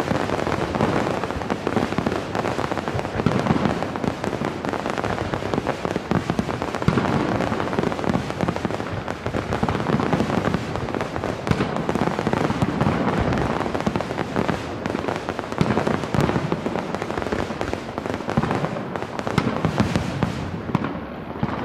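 Fireworks finale: a dense, unbroken barrage of overlapping shell bursts and crackle, easing slightly near the end.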